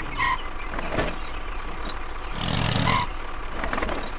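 A vehicle engine running, swelling briefly about two and a half seconds in, with two short high beeps, one near the start and one about three seconds in, and a sharp click about a second in.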